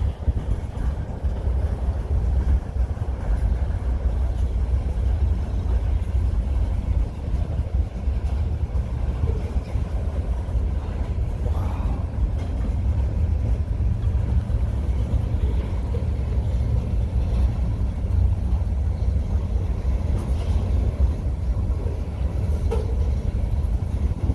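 Freight train rolling past with a steady, heavy low rumble. A few faint short higher sounds come through it.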